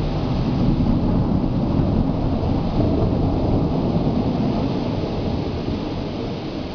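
Thunderstorm: a long, low rolling rumble of thunder with rain, swelling in the first second and slowly fading toward the end.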